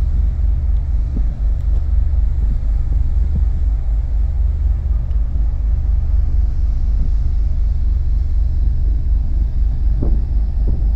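Car ferry's engines giving a steady, deep rumble through the deck, with wind blowing over the microphone.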